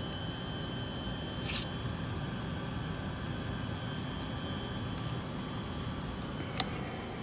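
Steady machine hum with a faint high steady whine, broken by a light click about a second and a half in and a sharp click near the end.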